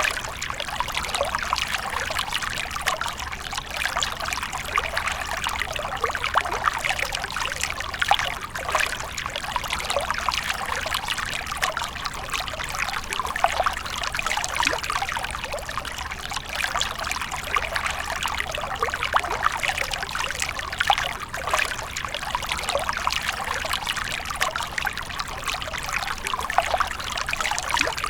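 Water from a fountain falling and splashing in a steady trickle, continuous, with fine spattering.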